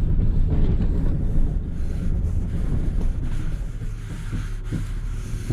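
Snowplow truck's engine running steadily, with a rushing noise over it.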